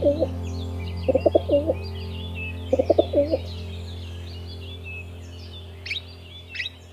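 Domestic pigeons cooing in three short rolling phrases about a second and a half apart, with small birds chirping high above and a steady low hum beneath. Near the end, two sharp rising calls from a green parakeet.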